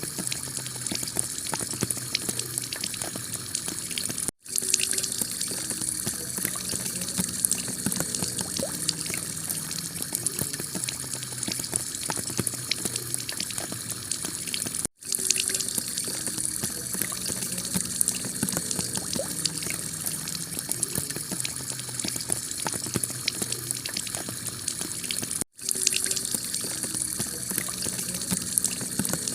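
Heavy rain pouring onto a clay-tiled roof: a steady dense hiss with fine patter. It cuts out for an instant three times, about ten seconds apart.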